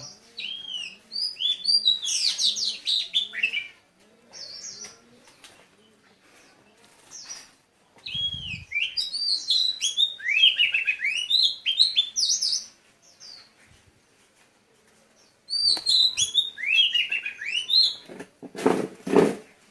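Small birds chirping in three bouts of rapid, high, falling chirps with quiet gaps between them. A louder, lower call with a clear pitch comes just before the end.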